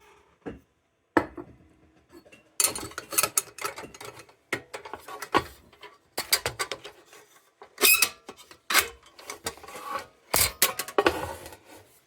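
Restored RAYO No. 92 tubular lantern being handled: an irregular run of sharp metal clicks, clanks and rattles from its sheet-metal parts, with short pauses between clusters.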